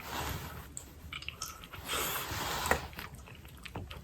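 A person chewing and biting into a bonfire-baked potato, with small wet clicks and two short noisy swells, one at the start and one about two seconds in.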